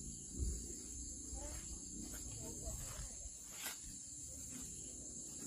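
Steady high-pitched chorus of insects in the background. A low thump comes about half a second in and a sharp click a little after three and a half seconds.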